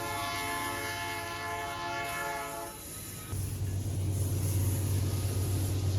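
A train horn blows one long, steady chord for nearly three seconds and then stops. The low rumble of the passing train follows and grows louder.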